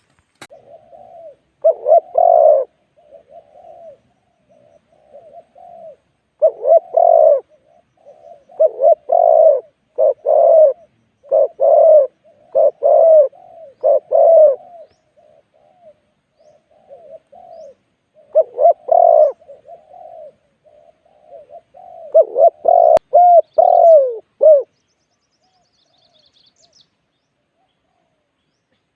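Spotted dove cooing: repeated loud coo phrases in runs, with softer coos between them.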